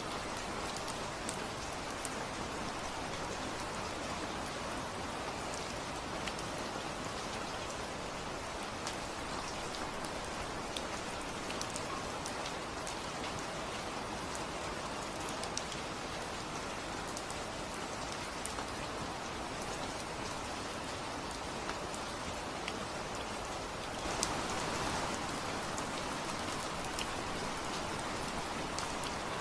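Steady rain falling, a constant hiss dotted with the sharp ticks of individual drops striking a surface. It grows a little heavier about five seconds before the end.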